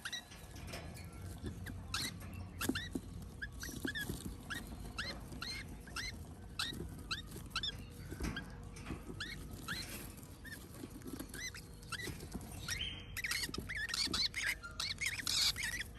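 Parrot chicks begging for food while being hand-fed: a string of short, high, squeaky chirps that grows denser and louder near the end.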